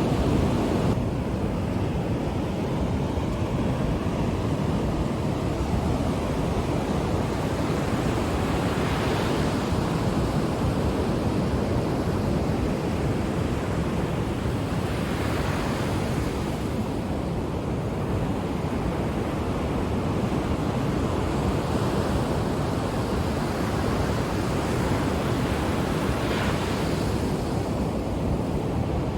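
Ocean surf washing steadily onto the shore, with a wave breaking and hissing up the beach three times: about a third of the way in, just past the middle, and near the end.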